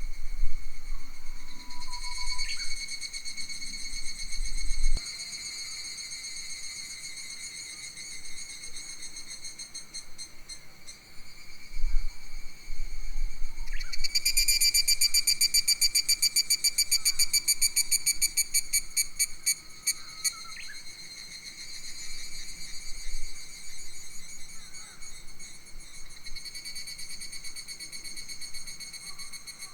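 Summer forest insects singing in a shrill, rapidly pulsing buzz that swells loudest about halfway through, with a few short bird calls. Low wind rumble on the microphone in the first few seconds.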